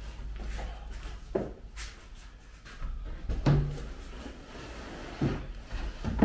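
About five separate knocks and clatters of plywood boards being handled and set down, unevenly spaced, with the loudest about halfway through.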